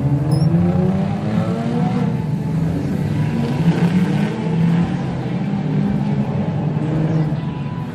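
Car engines revving and accelerating, their pitch rising and falling over and over.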